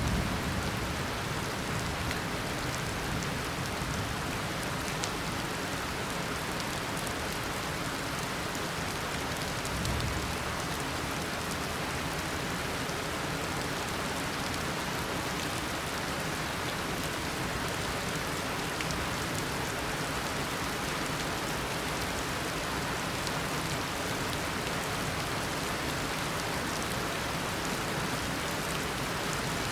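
Heavy tropical downpour: dense, steady rain falling on surfaces, with a brief low rumble about ten seconds in.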